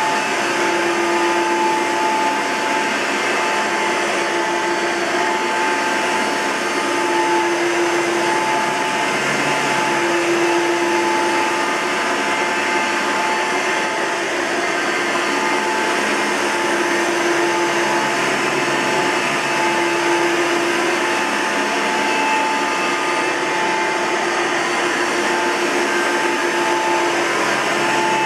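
1999 Hoover Soft & Light Elite upright vacuum cleaner running steadily, with a siren-like tone in its motor hum that swells and fades every few seconds. This comes from a motor bearing worn to the point of needing replacement, even with fresh grease.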